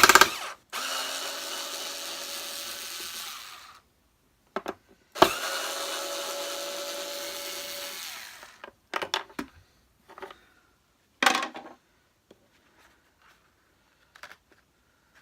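Cordless power screwdriver whirring in two steady runs of about three seconds each, undoing screws, each run started with a sharp click. A few short knocks follow as parts are handled.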